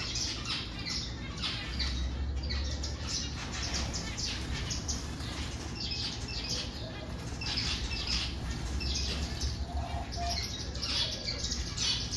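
Many small aviary birds chirping and calling rapidly and continuously, overlapping one another.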